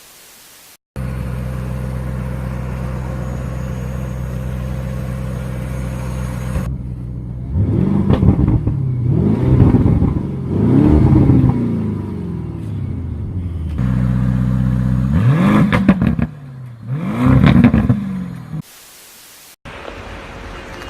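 Car engine running at a steady idle for several seconds, then revved hard again and again, its pitch rising and falling with each blip; hard edit cuts break it up.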